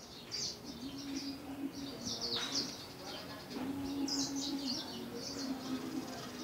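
Small birds chirping and twittering in quick repeated bursts, with a low humming sound coming and going underneath.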